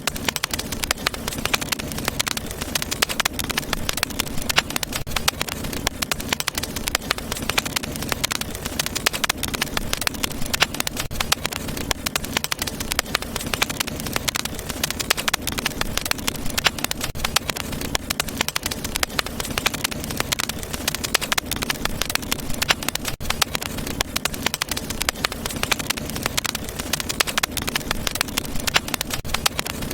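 Wood fire burning in a fireplace: a steady stream of dense crackles and small pops over a low rumble of flame.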